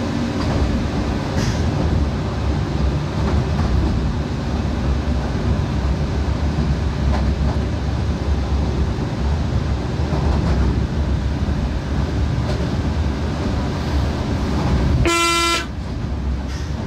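Electric train running at speed, heard from the driver's cab as a steady low rumble of wheels on the track. Near the end comes one short horn blast, about half a second long.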